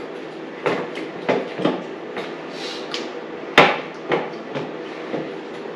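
Irregular hard knocks and clunks of metal parts on a dirt bike being worked on, about seven in all, the loudest about three and a half seconds in.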